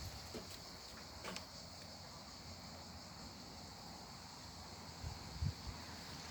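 Faint outdoor ambience: a steady high hiss, with a few soft low thumps about a second in and about five seconds in.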